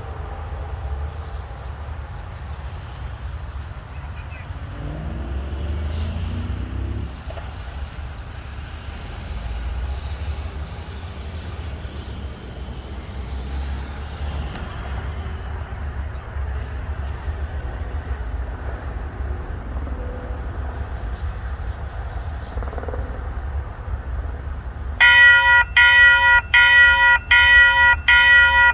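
Steady low rumble of a freight train pulling a string of empty lumber cars. Near the end, a railroad crossing bell starts ringing loudly, about two strokes a second.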